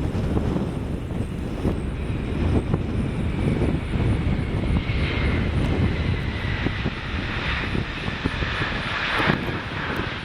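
Jet engines of an arriving Boeing 767 freighter: a steady low rumble with a high whine that slowly falls in pitch and fades out near the end.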